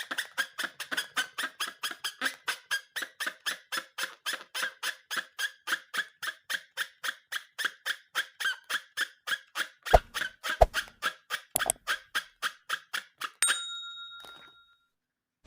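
Fast, regular rubbery squeaking, about four to five squeaks a second, like a balloon being rubbed. A few knocks come near the end, then a short ringing tone.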